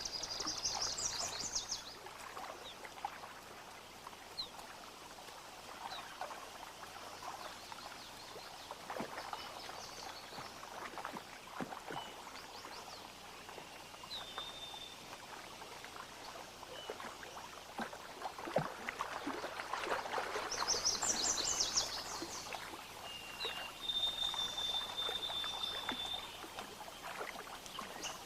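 A bison wading through shallow water, with irregular splashing and sloshing that comes and goes, busiest about a third of the way in and again past the middle.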